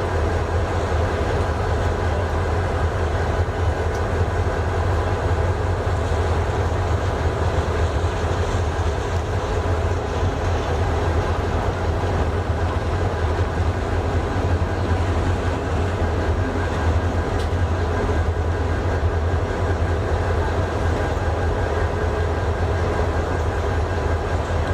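Chittagong Mail passenger train of Bangladesh Railway rolling into a station, a steady rumble with a low hum that holds even throughout.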